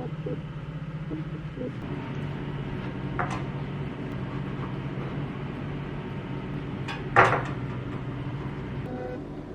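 A steady, low mechanical hum, like a small appliance motor running, with a light knock about three seconds in and a louder clatter of dishes about seven seconds in.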